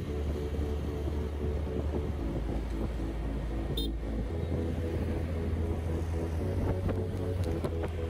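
Street traffic noise with music playing over it, its bass notes shifting every couple of seconds, and a short high beep about four seconds in.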